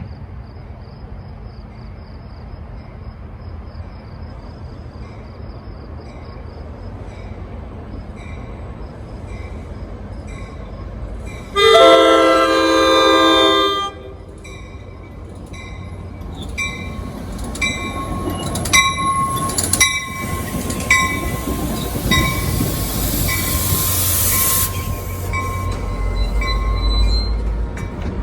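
A train approaching with a low rumble, then one long horn blast of about two seconds. It then passes close by, its wheels clicking rhythmically over the rail joints.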